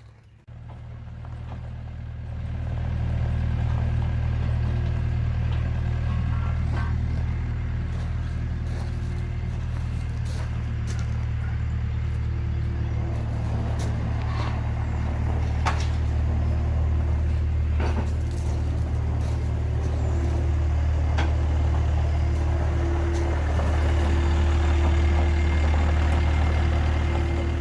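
Heavy lifting machine's engine running steadily, building up over the first few seconds, with a few clanks and knocks of metal over it.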